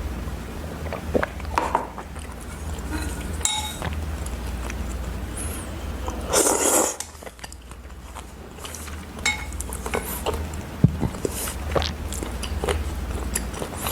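Eating sounds at a table: utensils clinking and tapping against dishes in scattered small clicks, with one brief louder rushing sound about six and a half seconds in, over a low steady hum.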